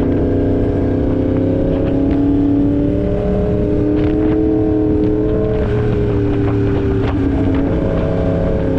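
2016 Yamaha R1's crossplane inline-four engine running steadily under light throttle. Its pitch rises slowly, drops between about five and a half and seven seconds in, then holds steady.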